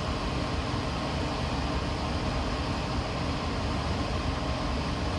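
A train running steadily: an even rumble with a hiss over it, unchanging throughout.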